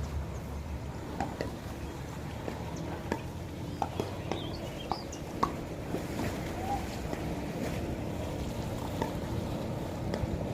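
Lakeshore ambience: a steady low rumble with small water sounds and scattered short ticks, plus a few brief chirps.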